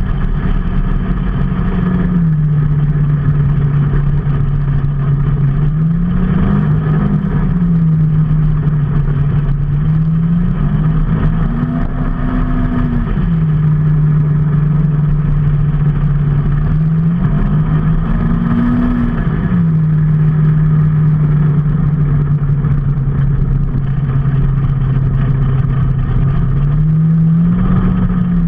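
A vehicle engine running steadily on the move, its pitch dropping about two seconds in and then rising briefly and settling back several times, around 6, 12 and 18 seconds in and again near the end, over steady road and wind noise.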